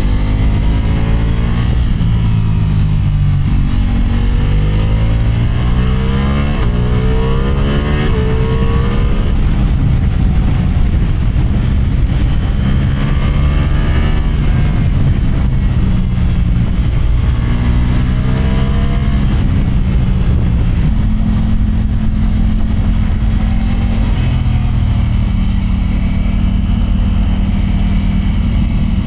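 Motorcycle engine under way, its pitch rising and falling several times as it accelerates and eases off.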